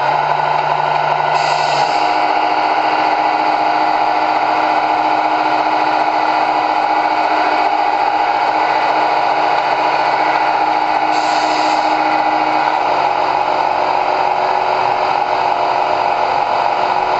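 Small electric motor and gearing of a remote-control model truck running steadily, with two brief hissing bursts.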